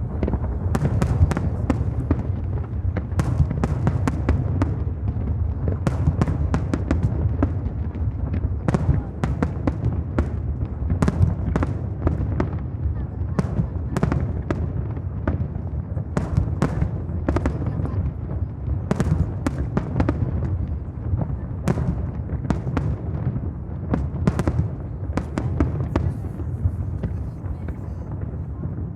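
Aerial fireworks display bursting without pause: many sharp cracks and bangs, several a second, over a steady low rumble of booms.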